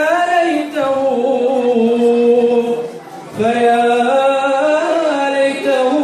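A man singing an Arabic mawwal unaccompanied: long held notes on a vowel, with ornamented pitch turns. There is a brief breath pause about three seconds in.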